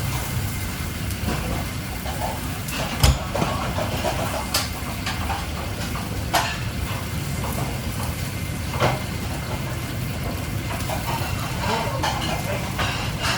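Restaurant kitchen at work: a steady low mechanical rumble, with sharp clanks of metal utensils or pans every couple of seconds and faint voices in the background.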